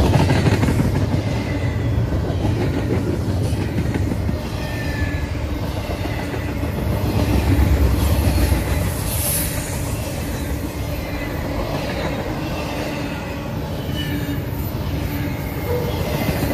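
Double-stack intermodal freight train rolling past close by: a steady rumble and rattle of the container-laden well cars over the rails, swelling louder about eight seconds in.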